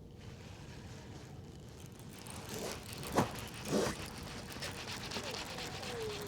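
Fishing reel being cranked to retrieve a cast, a fast fine ticking, with two sharp knocks about three and four seconds in.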